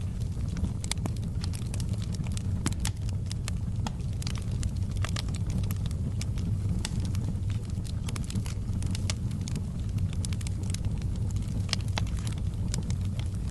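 Wood fire in a fireplace crackling, with many quick irregular pops and snaps over a steady low rumble.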